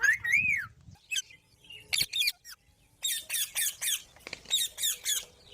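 Rose-ringed parakeet (Indian ringneck) calling: an arched squawk at the start, a few sharp short calls, then two quick runs of high, rapidly repeated chirps.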